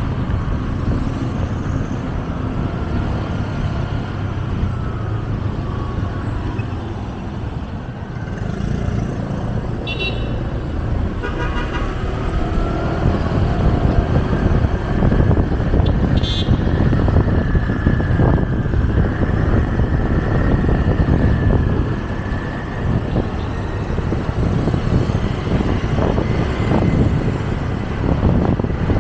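Motorcycle engine and road rumble in city traffic, with wind on the microphone. Short vehicle horn beeps sound about ten seconds in, again a second later, and once more about sixteen seconds in.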